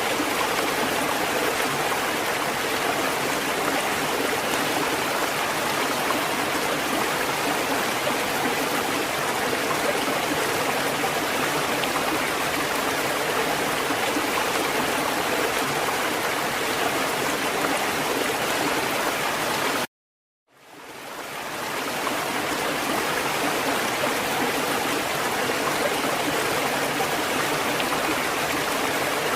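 Steady rushing water, an even hiss without wave surges. It cuts out abruptly about twenty seconds in, then fades back in over a second or two.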